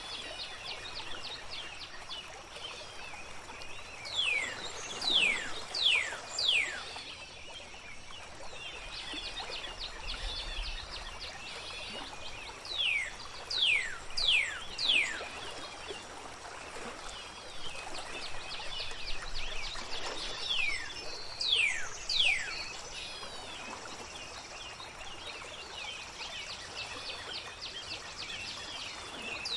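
Songbirds singing over a steady trickle of flowing water: one bird repeats clear whistled notes that fall in pitch, in runs of three or four a few seconds apart, while other birds twitter continuously in the background.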